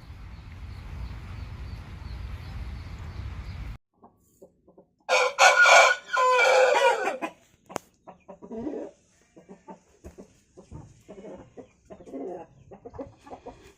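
An aseel rooster crows once, loudly, about five seconds in, the crow lasting about two seconds, followed by softer clucking. Before the crow, a steady rushing noise cuts off suddenly.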